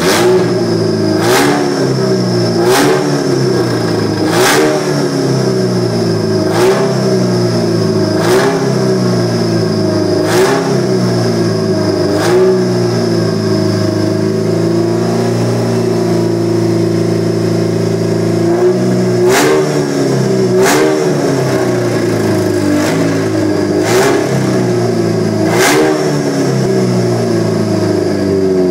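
Race-built Proton Campro four-cylinder engine idling and being blipped on the throttle, a short rev every one and a half to two seconds. Each rev starts with a sharp snap. The engine settles to a steady idle for a few seconds about halfway through, then the blips resume.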